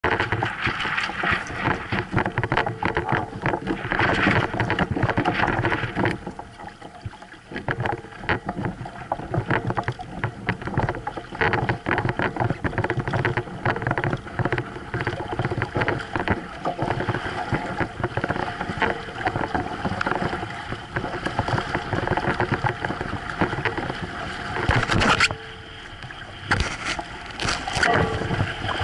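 Water rushing and splashing against the hull of a Hobie sailboat under way, mixed with strong gusty wind buffeting the microphone; a quieter lull a few seconds in and a sharp loud gust or splash near the end.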